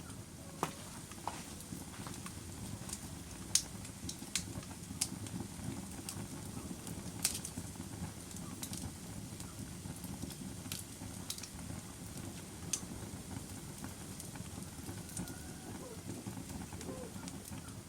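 Log fire burning in a fireplace: a steady low rumble of flame with sharp, irregular crackles and pops from the burning wood.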